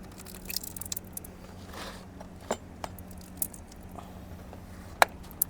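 Light metallic clicks and taps from tools working at an opened car ECU's casing and circuit board, with a sharper click about five seconds in, over a steady low hum.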